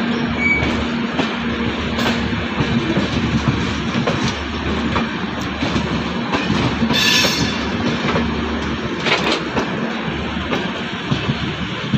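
Passenger coaches of an express train rolling past, a steady rumble with the wheels clicking over the rail joints. A short high-pitched burst, like a wheel squeal, cuts in about seven seconds in.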